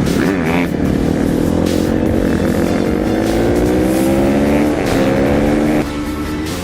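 Off-road vehicle engine pulling under load, its pitch climbing steadily for about five seconds. Near the end the sound drops suddenly and the pitch falls.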